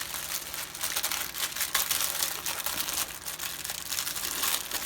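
Small plastic bags of diamond painting drills crinkling continuously as they are handled.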